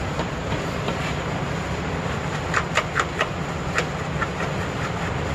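A few sharp metal clinks and clanks from tools and parts while working on a car's exhaust underneath, bunched a little past the middle, over a steady low hum.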